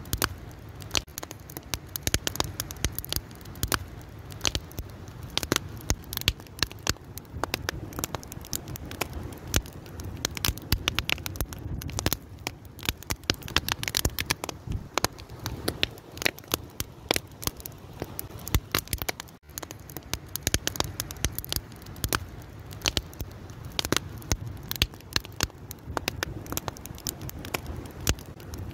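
Fire crackling and popping steadily, with dense irregular snaps over a low, steady rush of burning.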